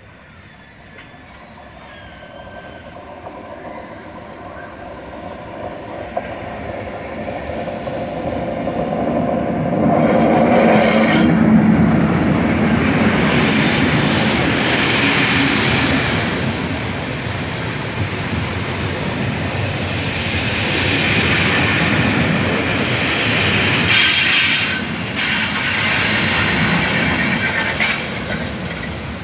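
A test train hauled by GB Railfreight Class 73 locomotives rolls into a station, growing steadily louder as it approaches and passes close by with wheel and rail noise. Near the end comes a brief hissing burst, then a quick run of clicks from the wheels.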